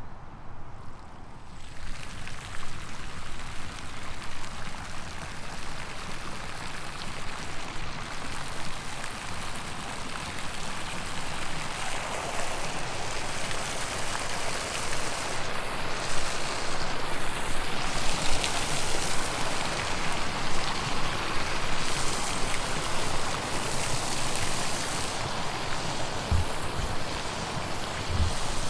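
Continuous rushing, splashing water that swells in a couple of seconds in and grows louder and fuller from about halfway, with a few low thumps near the end.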